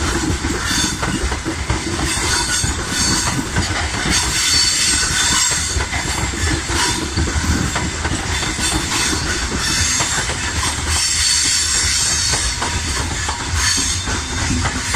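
Freight train of covered hopper wagons rolling past close by: a steady heavy rumble of wheels on the rails with irregular clatter, and a thin high squeal from the wheels.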